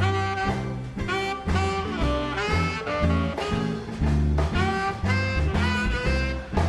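Live swing band playing an instrumental break: saxophone and brass lines over upright bass notes that change about twice a second.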